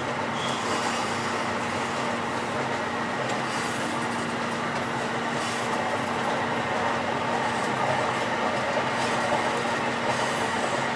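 Inside an NJ Transit commuter train car under way: steady running noise of the train with a constant low hum.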